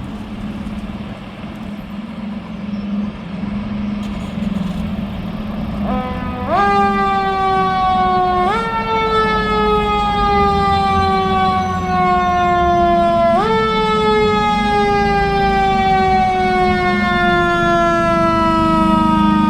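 Fire truck's engine running as it approaches and grows louder, then its siren comes in about six seconds in. The siren jumps up in pitch three times and glides slowly down between the jumps.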